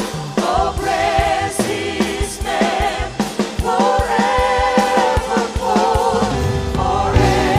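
Worship band and singers performing a gospel praise song, with sung melody over a steady drum beat; a bass line comes in near the end.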